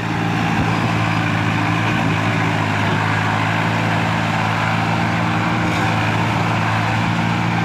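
Tractor's diesel engine running steadily at a constant speed, with an even low drone.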